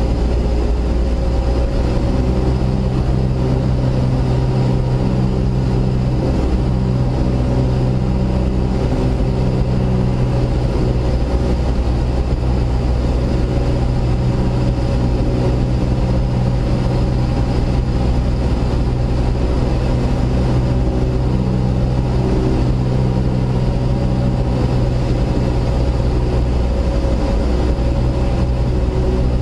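Cessna 172S's four-cylinder Lycoming piston engine and propeller running steadily, heard from inside the cockpit.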